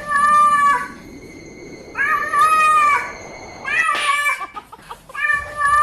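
A domestic cat meowing loudly in four long, drawn-out calls, each held for up to about a second, spaced roughly two seconds apart; the third is shorter.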